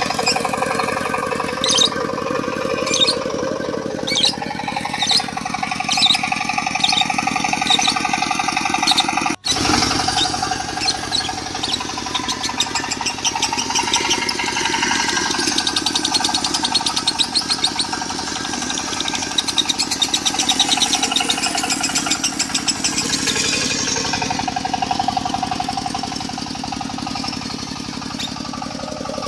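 Lovebirds chattering in fast, long, unbroken high trills, the 'konslet' song style, over a steadily running diesel engine. There is a brief dropout about nine seconds in.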